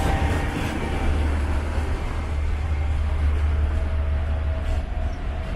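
Steady low rumble and running noise inside a moving High Speed Train passenger coach (a Mark 3 carriage), heard from the aisle, with a faint steady whine in the second half.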